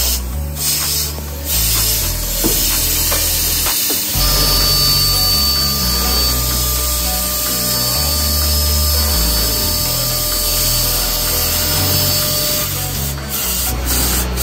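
Six-sided CNC drilling machine at work on a wood panel, with a steady high whine from about four seconds in until near the end. Background music plays underneath.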